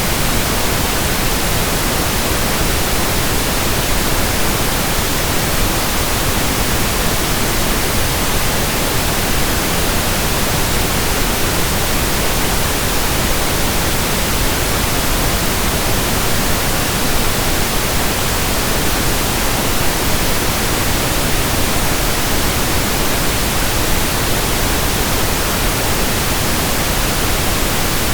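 Steady synthetic pink noise, an even hiss spread across all pitches with no change or events.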